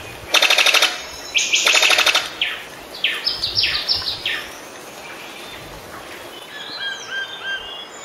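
Bird calls. Two loud, harsh rattling bursts open the sound, followed by a quick run of short falling chirps and then fainter whistled notes.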